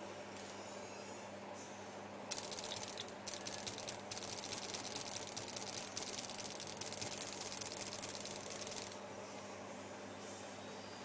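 Harsh, stuttery crackling hiss made of very rapid clicks, starting about two seconds in, breaking off briefly twice, then running on until it cuts off suddenly about nine seconds in.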